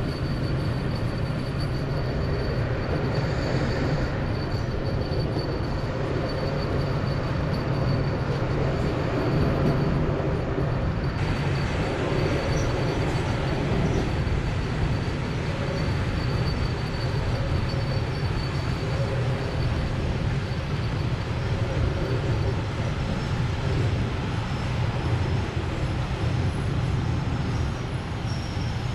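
Passenger train running along the track, heard from a carriage window: a steady low rumble of the wheels on the rails and the running gear, with a thin high whine over it.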